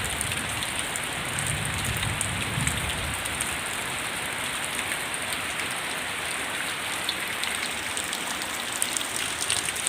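Heavy rain falling steadily in a dense hiss. A low rumble underneath fades out over the first few seconds, and sharper individual drop hits stand out near the end.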